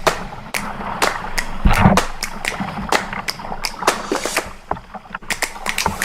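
Kayak on a river: water splashing and rushing around the hull, with many sharp knocks and taps from the paddle.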